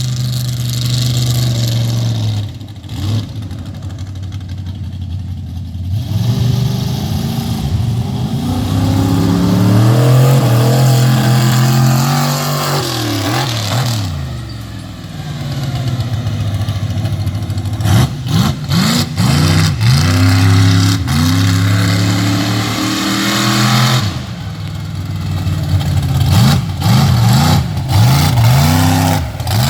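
Mega truck engine revving hard, its pitch climbing and falling as the throttle is worked, with a run of short, quick throttle blips in the second half.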